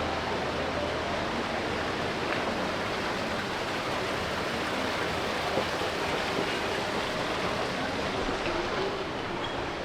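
Steady, even hiss of busy indoor shopping-mall ambience, with a faint murmur of distant voices in it.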